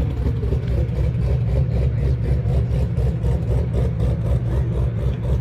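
Car engine running steadily with a deep, evenly pulsing rumble.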